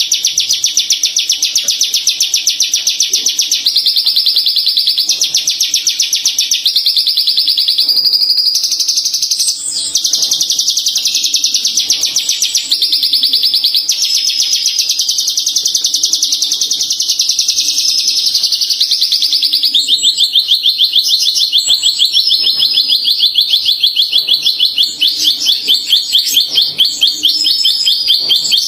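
Horsfield's bushlark (branjangan) singing non-stop: a loud, dense run of rapid twittering and trilled phrases. In the last third it settles into a fast, even trill.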